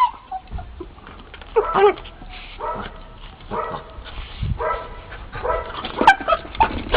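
A dog whining and yipping in a string of short calls, about half a dozen over a few seconds.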